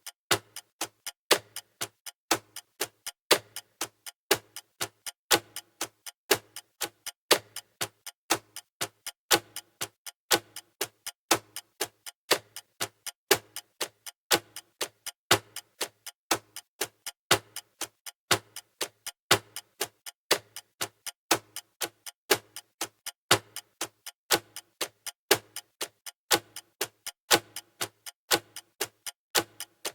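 Clock-style ticking sound effect of a countdown timer: rapid, evenly spaced ticks, louder and softer ticks alternating.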